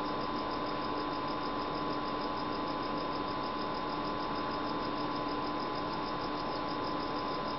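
Steady background hiss with a constant electrical-sounding hum: room tone with no distinct events.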